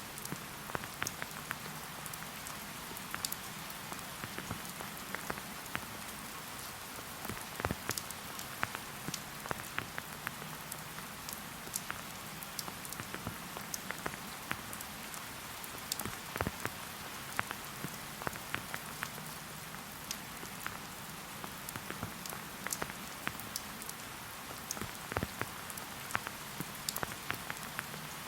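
Steady rain falling, with frequent separate drops striking close by at irregular moments over the even patter.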